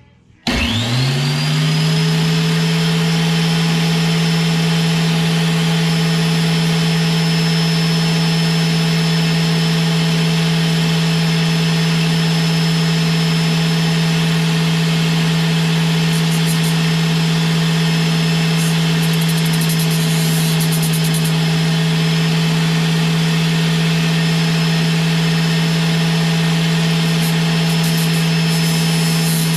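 An electric grinder fitted with a flap disc switches on about half a second in, spins up within a second and runs loud and steady at a constant high pitch. A fuel injector is being spun against the disc to grind off its pressed-on metal cap, with faint scratchy ticks now and then.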